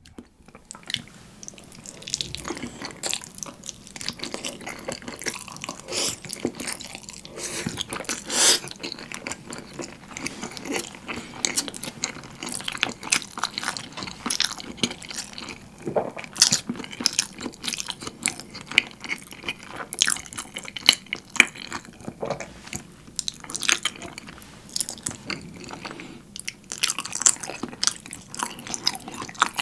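Close-miked chewing of thick, creamy shrimp carbonara: wet, sticky mouth sounds with many short clicks all through.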